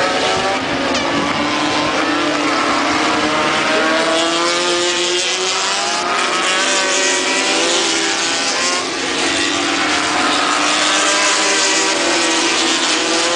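Several racing motorcycle engines running at high revs together, their pitches rising and falling as the bikes accelerate, shift and pass.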